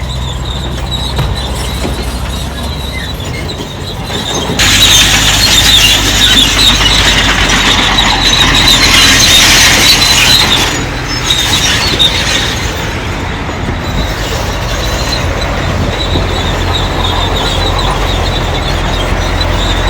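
Crawler bulldozer's diesel engine running under load, with its steel tracks squealing high and metallic. The squeal jumps in loudly about four seconds in, holds for about six seconds, then eases back under the engine's rumble.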